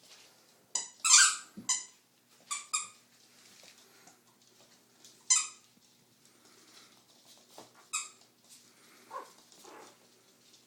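Young puppies squeaking: about seven short, high-pitched cries in the first eight seconds, the loudest just over a second in, then two softer, lower whimpers near the end.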